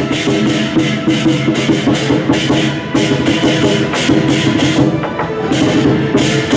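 Lion dance percussion: a drum, gongs and cymbals beating a brisk, steady rhythm with cymbal crashes about three times a second.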